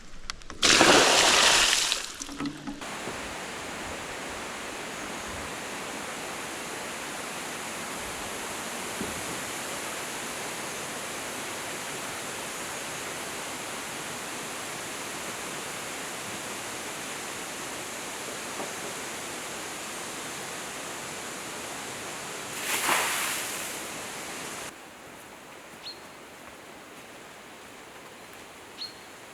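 Steady rushing of water, with a loud burst of noise about a second in and a shorter one near the end. It then drops to a quieter hiss with a few faint high chirps.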